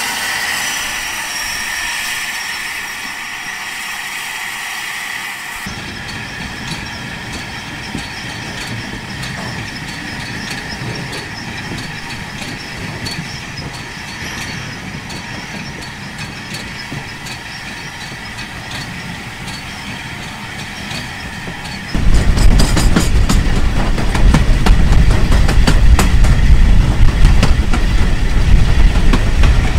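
Heritage railway train running on the line, its wheels clicking over the rails. About 22 seconds in, the sound jumps to a much louder, heavy low rumble with rapid sharp clicks.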